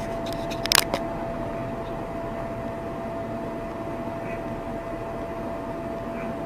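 Steady driving noise heard from inside a car, with a thin constant whine over it. A quick cluster of sharp clicks or knocks comes just under a second in.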